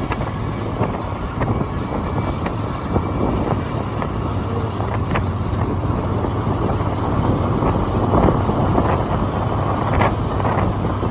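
Motorcycle riding at highway speed: a steady low engine hum under constant wind rush on the microphone and road noise.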